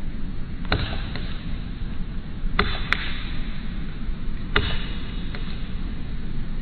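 Woodpecker pecking at wood: about six single, sharp knocks at irregular intervals over a few seconds, not a rapid drum roll. A steady low rumble runs underneath.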